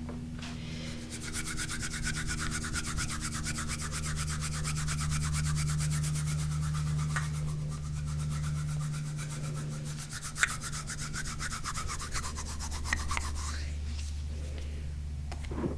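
Close-up fast scratching and rubbing on a golden crystal stone, a rapid even run of fine strokes that stops about a second before the end, with a couple of sharp ticks in its later part.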